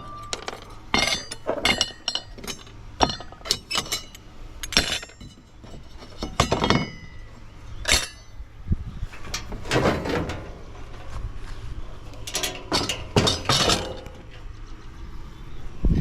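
Small pieces of scrap steel (shred) clinking and clattering irregularly as they are handled and piled up for weighing.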